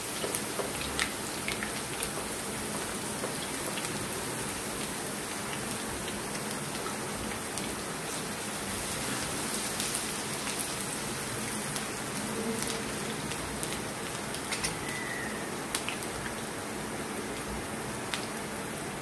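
Sliced ginger and garlic frying in hot sunflower oil in a wok: a steady sizzling hiss with scattered pops and crackles.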